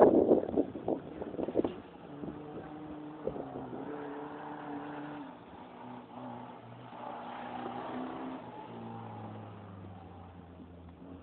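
Toyota Corolla KE30 engine revving on a dirt course, its note rising and falling and stepping in pitch with gear changes. Loud wind buffeting on the microphone in the first second or so.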